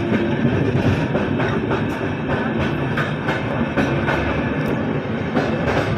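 Passenger train running on the rails: a steady rumble with irregular sharp clicks and clacks of wheels over the rail joints.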